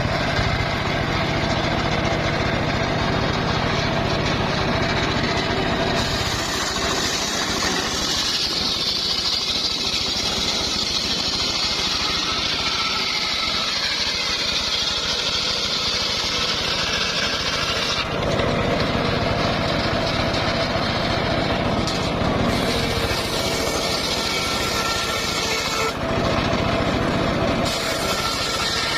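Engine-driven circular saw running continuously and cutting wood. A steady machine drone alternates with long stretches of a high, bright whine as the blade works through the timber, changing several times.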